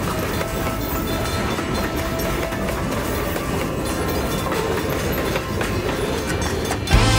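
A train running on the rails, a steady noise with a few faint held tones. Just before the end it cuts abruptly to music.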